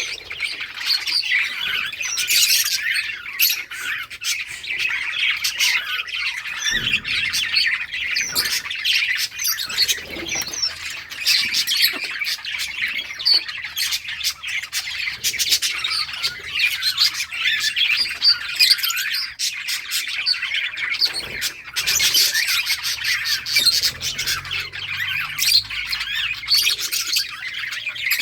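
A colony of budgerigars chattering and chirping, many birds calling at once in a dense, unbroken twitter with harsher squawks mixed in.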